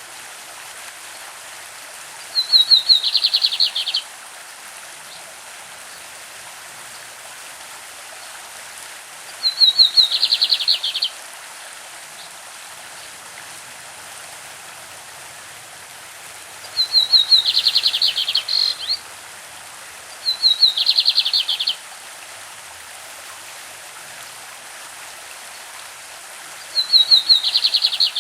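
Lined seedeater (bigodinho) singing its 'classic' song: five short phrases of rapid repeated notes, each lasting under two seconds, several seconds apart. A stream runs steadily underneath.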